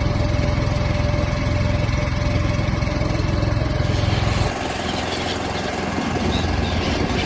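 A small engine running steadily with a fast, even low chug. About halfway through, the low chug drops away sharply and a higher hiss comes up.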